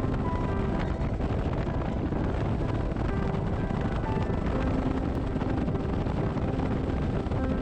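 Steady wind rush and engine noise from a moving motorcycle, with short notes of background music over it.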